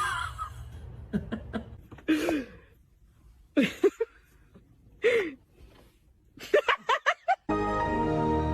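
A person laughing and gasping in short separate bursts, with a quick run of laughs near the end. Music starts abruptly about seven and a half seconds in.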